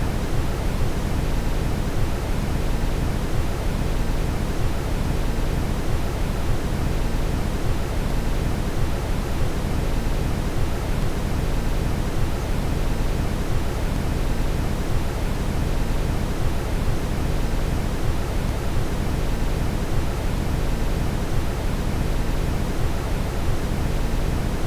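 Steady brown noise: a continuous, even rushing hiss weighted toward the low end, with no changes.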